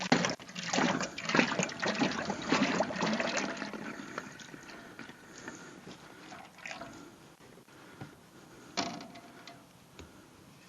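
Peanut oil glugging as it pours from a jug into a turkey-fryer pot. The flow is loud at first and dwindles over the first few seconds as the jug runs empty, leaving too little oil for the pot. A few light knocks follow, with a sharper one about nine seconds in.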